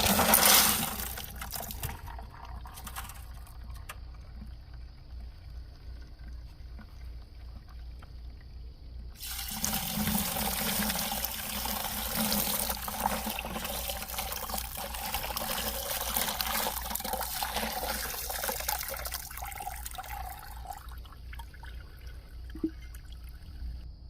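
Water running, starting suddenly about nine seconds in and lasting about ten seconds, then tapering off to a trickle. A brief louder noise comes at the start.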